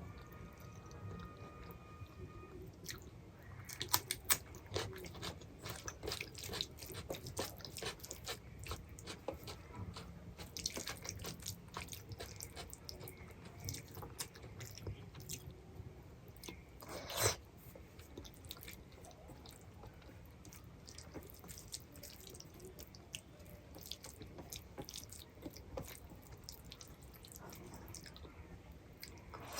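Close-up chewing and mouth sounds of a person eating rice, dal and vegetables: a steady run of soft smacks and crunchy clicks, with one louder click a little past halfway.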